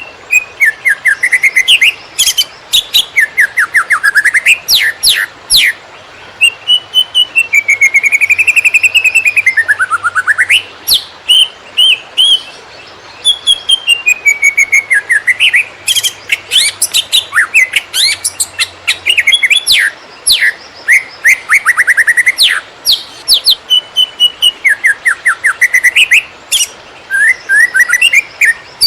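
Cucak ijo (green leafbird) singing in the rapid 'konslet' style: fast runs of sharp down-sweeping chirps mixed with longer wavering whistled phrases, in bursts separated by short pauses.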